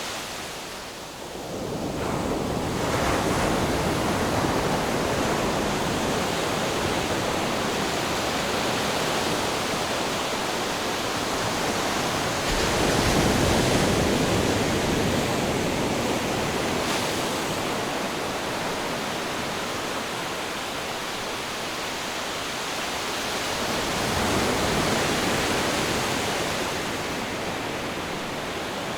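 Ocean surf: a continuous rush of breaking waves that slowly swells and eases, loudest about halfway through.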